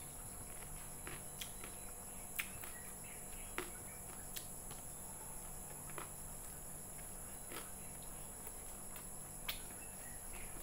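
Close-up mouth sounds of someone chewing a mouthful of fried rice vermicelli noodles: scattered soft wet clicks and smacks, one every second or so, over a faint steady high-pitched whine.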